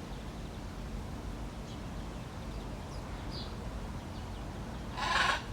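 Parrot giving one short, harsh squawk about five seconds in, the loudest sound here. Faint high bird chirps come a couple of times earlier, over a steady low background rumble.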